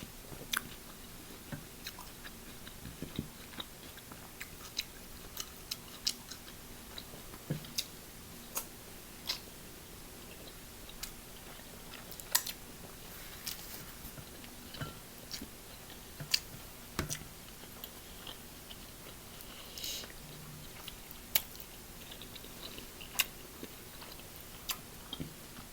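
Close-up mouth sounds of a person eating seafood: chewing, with sharp, irregular wet clicks and smacks every second or so.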